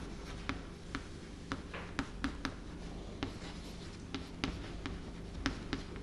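Writing and drawing on a board: irregular taps and short scratching strokes as lines are drawn.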